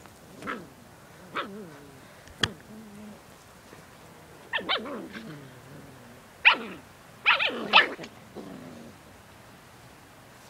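Puppies yelping and whimpering: a series of short high calls, each falling in pitch, the loudest coming about six to eight seconds in. A sharp click sounds about two and a half seconds in.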